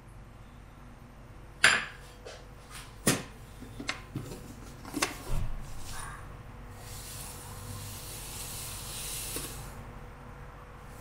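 Kitchenware knocking and clinking, several separate strikes, then a steady hiss for about three seconds.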